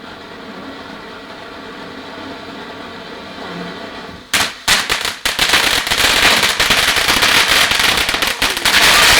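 Firework going off: about four seconds in, it erupts suddenly into a dense run of rapid cracks over a loud hiss that keeps going.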